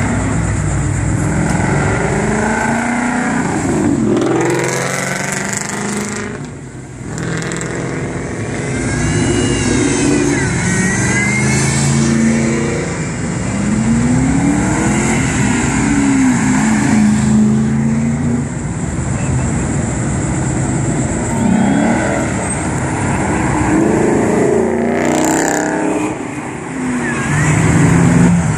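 Mustangs accelerating hard one after another past the crowd, each engine revving up in pitch and dropping at the shifts before fading down the road.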